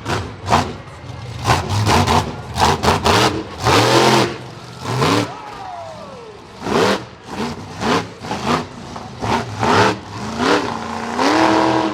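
Monster truck engine revving in many short, loud bursts, the pitch rising and falling with each blip. Near the end it holds a higher rev that steps up, then cuts off.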